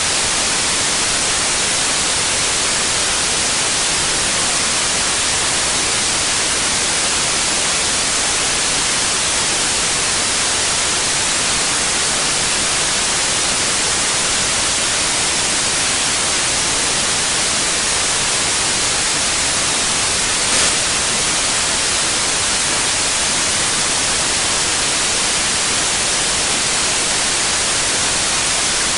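Steady white noise: an even hiss, brightest in the high frequencies. One brief click sounds about two-thirds of the way through.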